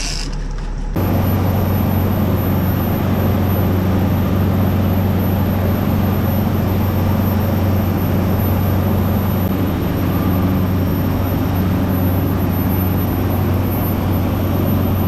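Boat engine running steadily under way, a constant low drone that starts suddenly about a second in.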